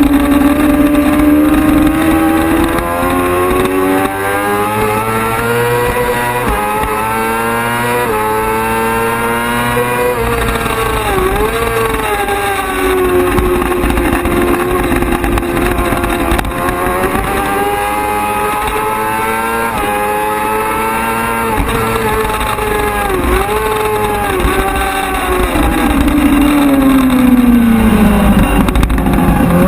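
Racing motorcycle engine at high revs on track, its pitch climbing through the gears, then dipping in quick notches as the rider downshifts. Near the end the revs sink low and start climbing again.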